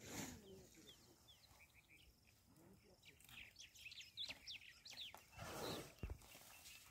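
Faint bush sounds: a bird giving a quick run of short, high chirps for a couple of seconds midway, with two brief rushing noises, one at the start and one near the end.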